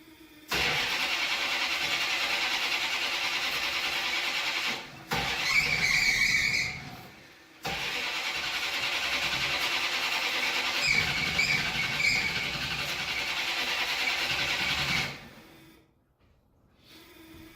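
Plymouth Duster's engine being cranked over on its starter in three long bursts, the longest about seven seconds, with brief high squeals. This is a first start attempt after three years sitting, with a new fuel pump fitted, and the engine has not yet run on its own.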